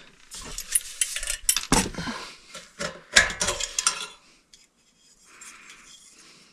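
Small metal parts clinking and rattling as they are handled, a quick run of sharp clinks for about four seconds, then only a faint soft hiss.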